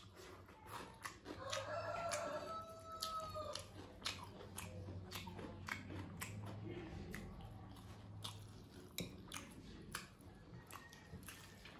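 Close-miked eating by hand: wet chewing, lip smacks and mouth clicks as mouthfuls of rice and curry are chewed. About a second in, a rooster crows in the background for about two seconds.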